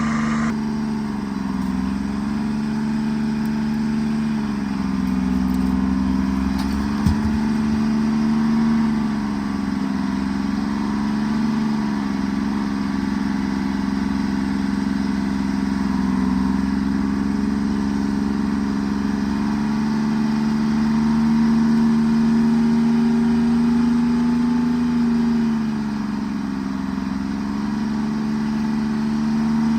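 Forwarder's diesel engine running, its pitch rising and falling every few seconds as the engine works. There is a single sharp knock about seven seconds in.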